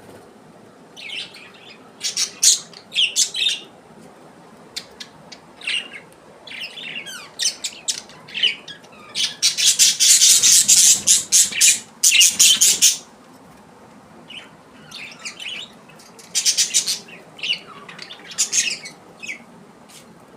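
Pet parrots chirping and squawking in bursts of shrill calls, with a loud, dense spell of screeching about halfway through.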